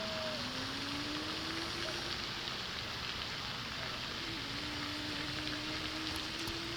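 Steady rush of falling water from a waterfall. A faint hum rises slowly in pitch twice, once at the start and again past the middle.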